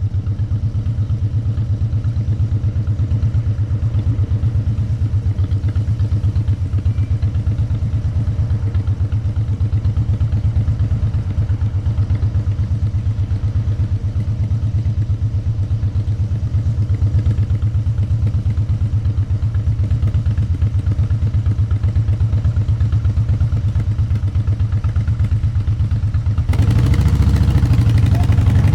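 Motorcycle engine running steadily under way, its exhaust pulsing evenly. Near the end the sound changes abruptly and the engine's pitch begins to rise as it revs up.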